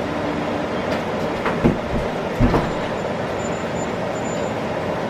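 Steady rumbling background noise, with two dull thumps a little under a second apart near the middle.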